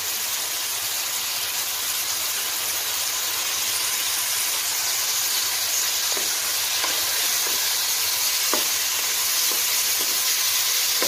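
Marinated chicken pieces sizzling in hot oil in a nonstick wok, a steady hiss. From about six seconds in, a spatula stirs them, with short taps and scrapes against the pan.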